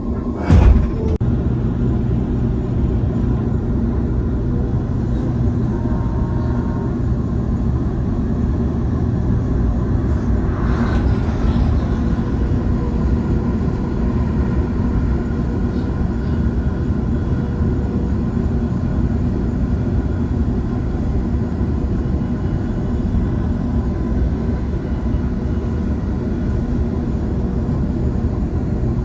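Steady low rumble of a moving commuter train heard from inside the carriage: wheels and running gear on the track. A sharp knock comes about half a second in.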